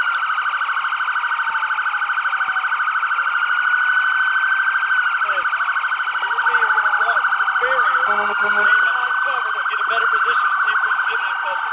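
Several police car sirens sounding at once, overlapping: one a rapid pulsing warble, others slow wails that rise and fall in pitch.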